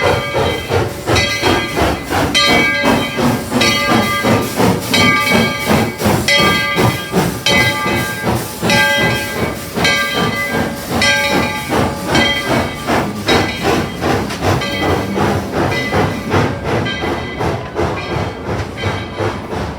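Steam locomotive working, with a rapid, steady rhythm of exhaust chuffs over hissing steam. A ringing tone repeats about once a second and fades out near the end.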